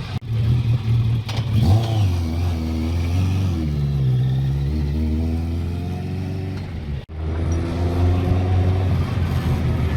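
British touring car race engines revving past on the circuit, the engine note rising and falling repeatedly, with sudden breaks in the sound near the start and about seven seconds in.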